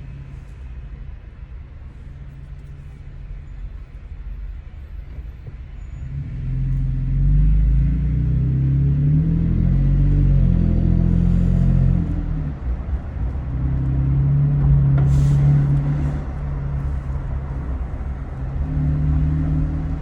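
2019 Toyota Tacoma TRD Pro's 3.5-litre V6 heard through an MBRP 3-inch cat-back exhaust while driving. A low drone at light throttle grows much louder about six seconds in as the truck accelerates, eases off around twelve seconds, then swells again twice.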